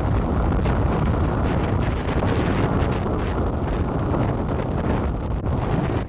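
Strong wind in a snowstorm buffeting the microphone: a loud, steady rumbling rush with no let-up.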